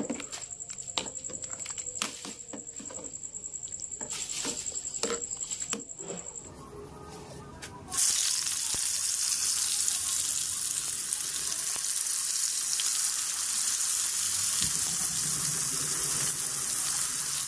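A metal ladle knocking and scraping in an aluminium pot of simmering vegetable stew, then from about eight seconds in a slab of tempe deep-frying in a pan of hot oil with a loud, steady sizzle.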